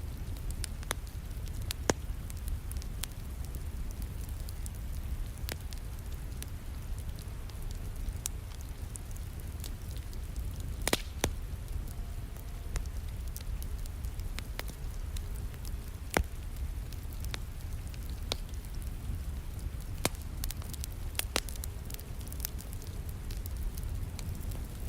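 Wood fire crackling in a fireplace: scattered sharp pops at irregular intervals, a few louder ones, over a steady low rushing of flames, with rain falling behind it.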